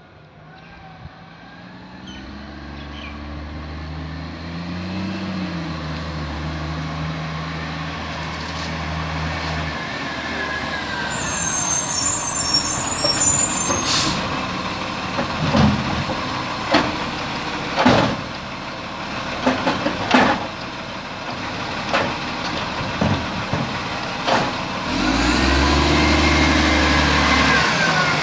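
Garbage truck drawing closer with its engine running, then a short hiss of air brakes. Next comes a string of sharp bangs over about ten seconds as a bin is lifted and emptied, and the engine revs up near the end.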